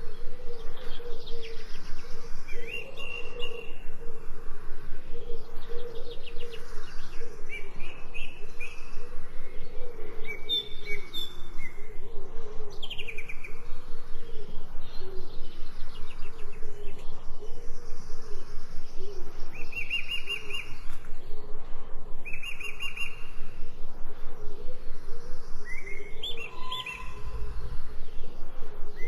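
Birds chirping and trilling in short high phrases, over a steady, fast-pulsing lower sound. A brief low thump comes near the end.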